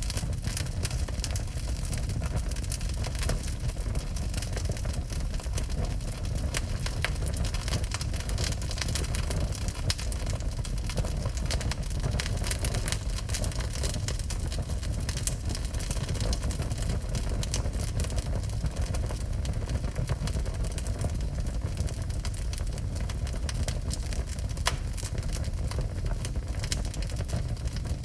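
Wood fire burning in a fireplace: many small crackles and pops over a steady low rumble.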